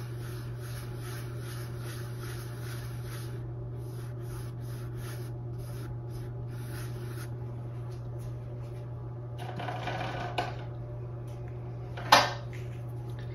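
Paintbrush rubbing acrylic paint in quick, even strokes of about three a second, mixing white and rose or brushing it on. A louder rub comes about ten seconds in, and a short sharp knock near the end.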